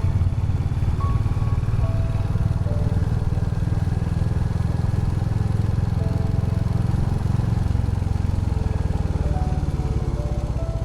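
Royal Enfield Hunter 350's single-cylinder engine running steadily under way, a continuous low exhaust note, with soft melodic music notes laid over it.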